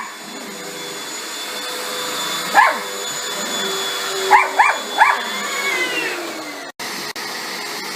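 Household vacuum cleaner running with a steady motor whine, while a dog barks four short times in the middle. Near the end the motor's whine slides down in pitch.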